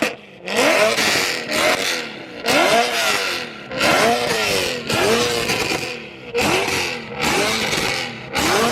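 BMW E92 M3's V8 being revved hard in repeated quick throttle blips, about one a second, its pitch rising and falling with each blip, through a very loud exhaust with a harsh rasp on every rev.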